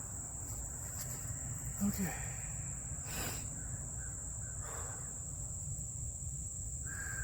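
Insects trilling outdoors: one steady, unbroken high-pitched tone, over a low background rumble.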